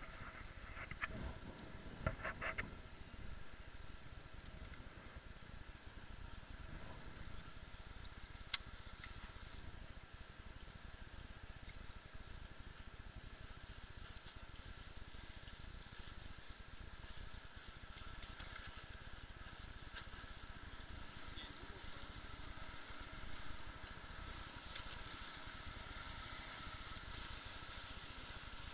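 Steady hiss of wind and water on board a small umpire motorboat, with a few faint knocks in the first few seconds and one sharp click about eight seconds in.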